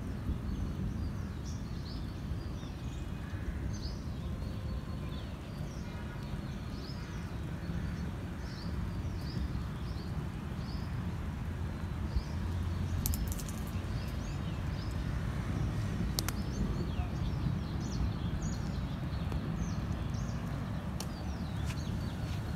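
Small birds chirping, short high calls about one or two a second, over a steady low rumble of outdoor noise.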